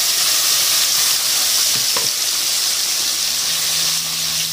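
Blended chilli paste (shallot, garlic, chilli and ginger) frying in hot oil in a frying pan: a loud, steady sizzle as the sambal cooks, with a spatula stirring through it. A faint low hum comes in near the end.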